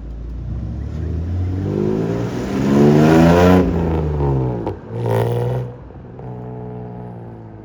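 Classic car engine revving as the car pulls away. Its pitch climbs to the loudest point about three seconds in, then falls; a short second rev follows about five seconds in, and a lower, steadier engine note carries on after.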